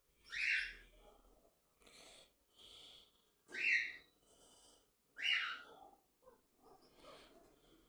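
Cockatiels calling: three loud, short, harsh calls a second or two apart, with softer chatter between them.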